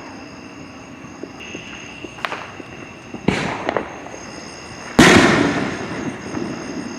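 Fireworks going off: a few small pops, then a sharp bang about three seconds in followed by crackles, then the loudest boom about five seconds in that echoes and fades over a second or two.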